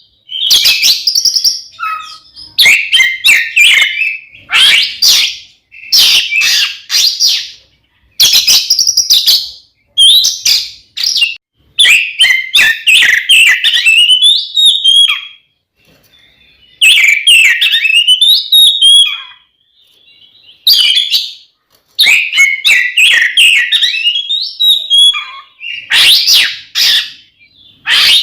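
Oriental magpie-robin (kacer) singing loudly in a fighting-mood song: rapid, varied whistled and chattering phrases, each a second or two long, with short pauses between them.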